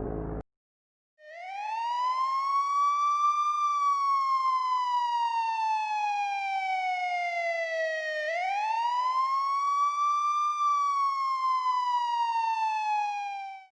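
Siren sound effect: one wailing tone that climbs, then slowly sinks, and climbs and sinks a second time before fading out, each cycle lasting about seven seconds.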